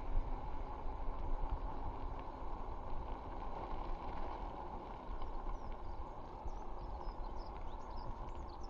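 Fat e-bike tyres rolling along a canal towpath: a steady rough rumble with wind on the microphone. Faint bird chirps come in over the second half.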